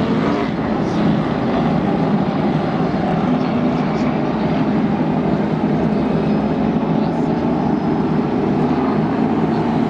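Stock cars' V8 engines running steadily on the track, a continuous loud drone.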